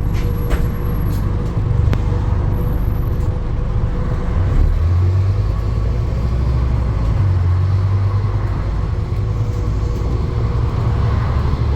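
Steady low rumble of a running motor vehicle, with a few faint clicks in the first second.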